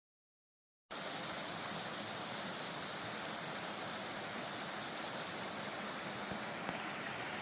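Mountain stream running, a steady rushing of water that cuts in abruptly about a second in.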